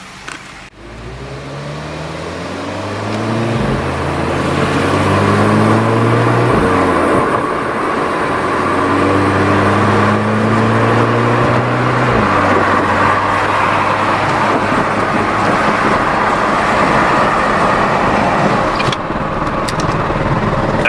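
Muffler-deleted VW Mk6 GTI accelerating, heard from inside the cabin: the exhaust note climbs in pitch and drops back at gear changes three times. It then settles into a steady highway cruise where wind buffeting and road noise cover the exhaust.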